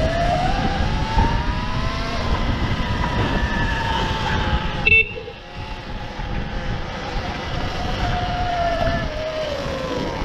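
Sur-Ron Ultra Bee electric dirt bike motor whining as it rides off, the pitch rising as it speeds up and falling back toward the end as it slows, over wind and tyre rumble. A short click with a brief high chirp about halfway through.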